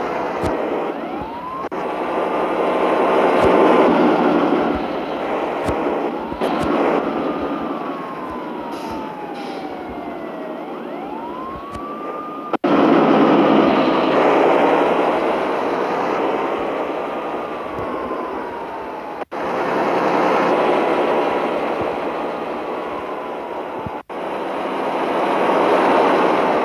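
Road vehicle noise with a wailing tone that rises quickly and falls slowly several times, broken by three abrupt cuts.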